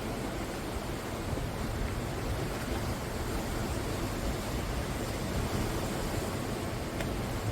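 Sea surf breaking on the shore, a steady continuous rush of waves.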